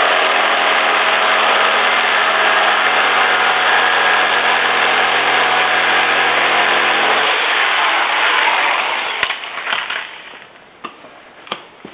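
A motor running steadily at an even pitch, then switched off about seven seconds in and winding down over a couple of seconds. A few light knocks follow near the end.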